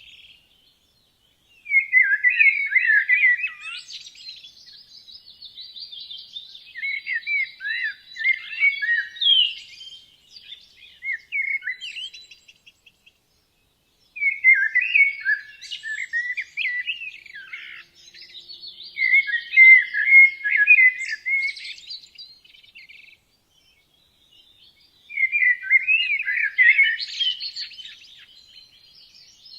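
A songbird singing long, rapid warbling phrases of several seconds each, broken by short silent pauses.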